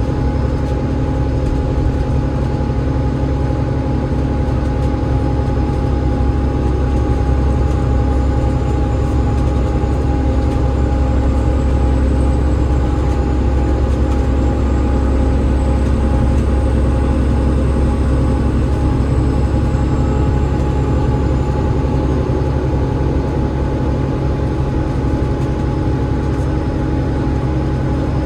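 Alexander Dennis Enviro500 MMC double-decker bus running at a steady speed, its Cummins ISL8.9 diesel and ZF EcoLife automatic gearbox giving a steady whine over a heavy low rumble.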